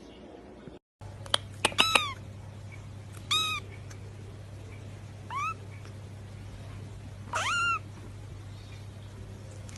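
A cat meowing: four short meows spread over several seconds, the last a little longer than the others, with a few sharp clicks just before the first.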